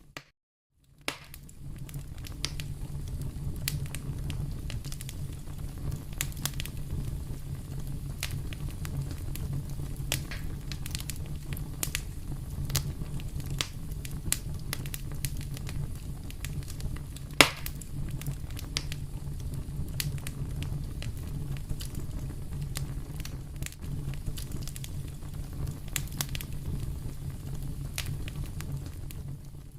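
Fire burning in a fireplace: a steady low rumble of flames with frequent crackles and snaps, and one louder pop a little past halfway. The sound cuts out for about a second at the very start.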